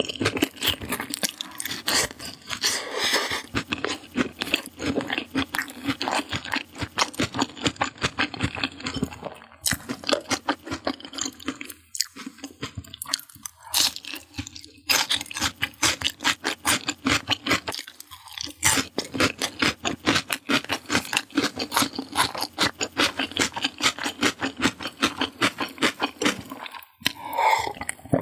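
Close-miked crunching and chewing of deep-fried skewered food, a dense run of crisp bites with a few brief pauses. Near the end, a sip from a glass of fizzy drink.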